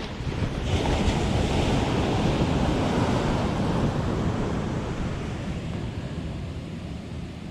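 Surf wave breaking and washing up the beach: the rush of water builds about a second in, then slowly fades as it runs back. Wind rumbles on the microphone throughout.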